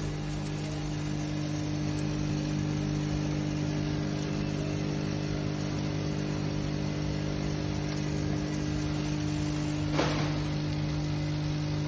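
AS-400 semi-automatic filling machine running with a steady mechanical hum, with one short knock about ten seconds in.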